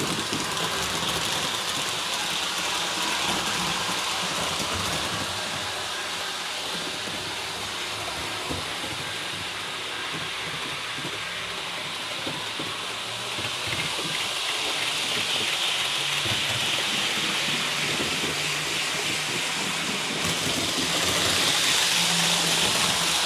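REE HO-scale TGV model train running on the layout track at its top speed, a steady rushing rumble of wheels and motor that fades somewhat in the middle and grows louder again as the train comes back round.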